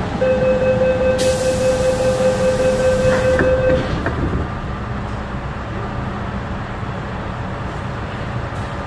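MTR M-Train: a steady high tone sounds for about three and a half seconds, with a burst of hiss over its middle part, then the train runs on steadily.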